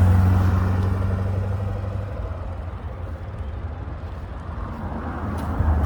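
Car engine's low exhaust rumble as it drives past, loudest at first and fading over the first couple of seconds as it pulls away; another car's rumble swells up near the end.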